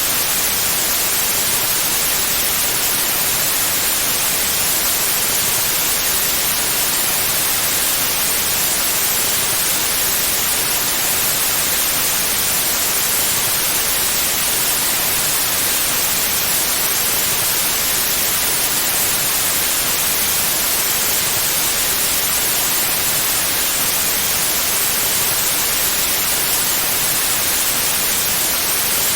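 Synthetic white noise: a steady, even hiss, brightest in the treble, unchanging throughout.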